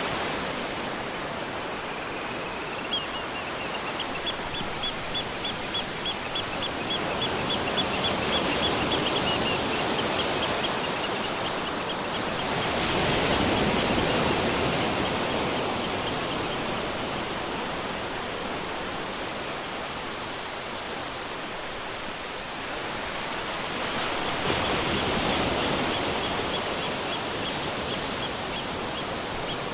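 Ocean surf washing in a steady hiss that swells twice, with a bird giving a fast string of high repeated notes, about four a second, for several seconds early and again near the end.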